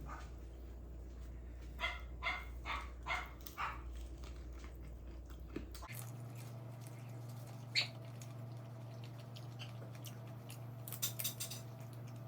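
Dogs barking back and forth: a quick run of about five barks about two seconds in, a single bark near eight seconds, and a short cluster of barks near the end.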